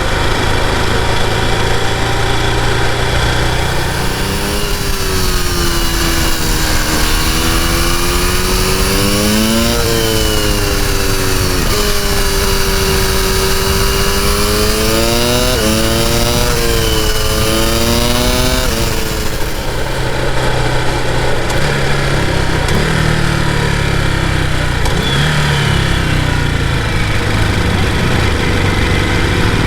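Ducati Multistrada V2S's V-twin engine under way. Between about 4 and 19 seconds in, its pitch rises and falls several times as the bike accelerates and shifts gears, and it runs steadier after that, over a constant rush of riding noise.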